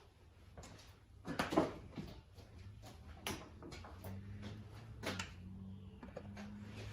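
Scattered clicks and knocks of hand tools and metal parts being handled while working loose the exhaust cover screws on an outboard motor, the loudest cluster about a second and a half in. A faint low steady hum comes in about halfway through.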